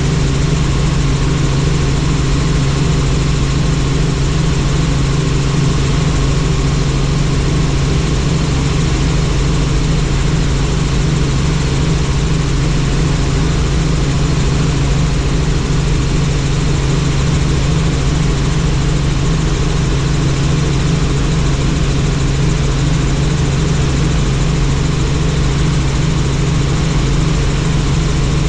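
Helicopter running in flight: a loud, steady low drone with a fast pulsing beat from the rotor, over a haze of engine and air noise.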